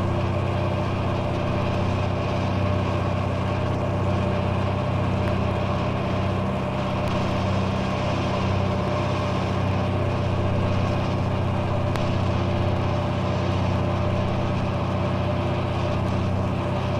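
An engine running steadily at a constant speed, with a low, even drone that does not change pitch.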